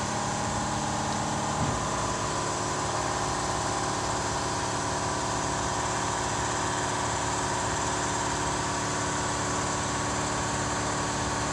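A V8 engine idling steadily at an even pitch.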